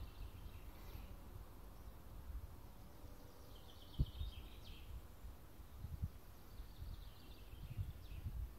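Faint outdoor ambience: three short runs of high, chirpy bird calls, about a second in, near the middle and toward the end, over a low rumble. A single dull bump about halfway through is the loudest sound.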